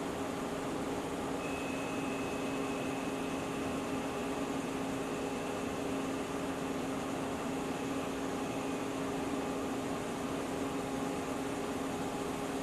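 CNC lathe running with a steady mechanical hum and noise, a thin high whine joining in about a second and a half in and fading out after several seconds.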